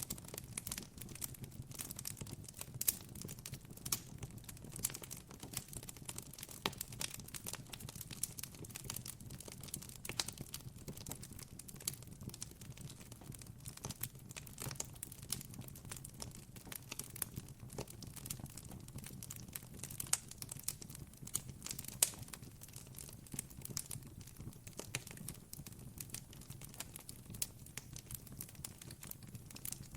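Campfire crackling: irregular snaps and pops from burning wood, several a second, over a faint steady low hum.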